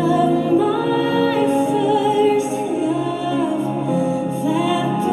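Slow worship singing with music: voices hold and glide between notes between sung lines.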